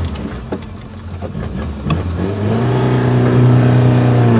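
Suzuki Jimny's engine revving under load off-road, with a few knocks early on. About two seconds in it climbs in pitch and holds at high revs.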